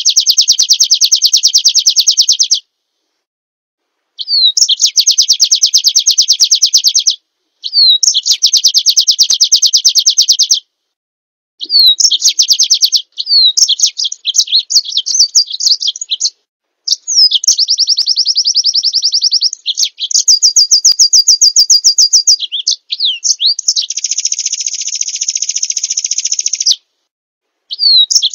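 A recording of small songbirds, a white-eye training track, playing loud, high, rapid trills in phrases of two to three seconds. Each phrase opens with a short slurred note, and short pauses separate the phrases. The phrases grow more varied in the second half.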